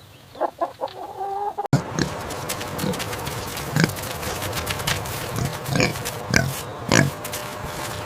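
Farm animals calling: a few short pitched calls, then an abrupt change to a busier farmyard background with short calls about once a second.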